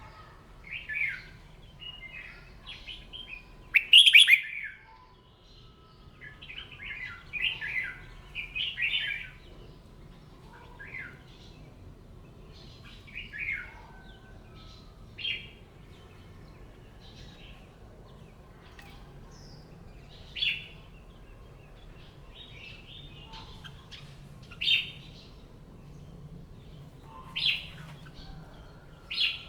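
Red-whiskered bulbul singing short, bright warbled phrases. They come in quick runs with one loud burst about four seconds in, then thin out to single notes every few seconds.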